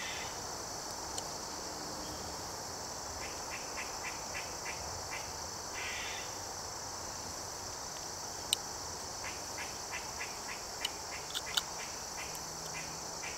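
Steady high-pitched insect chorus of crickets, with runs of short chirps repeating a few times a second. A few sharp clicks stand out in the second half, the loudest about two thirds of the way through.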